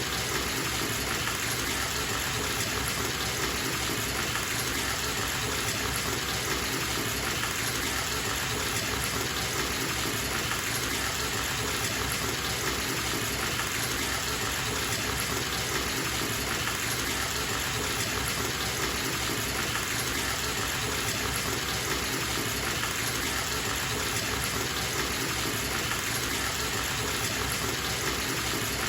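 Bathtub tap running steadily, the stream of water splashing into the filling tub in an even, unbroken rush.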